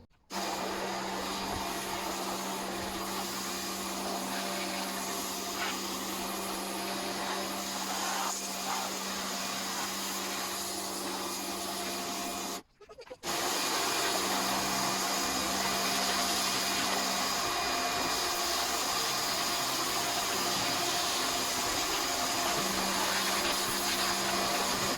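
Electric pressure washer running and spraying, a steady motor whine with hissing spray; it cuts out briefly about halfway through, then starts again.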